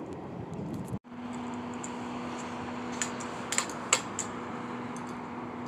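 Freight cars rolling past with a steady rumble and a few sharp clicks about three to four seconds in. The sound drops out for an instant about a second in, and a steady hum runs underneath afterwards.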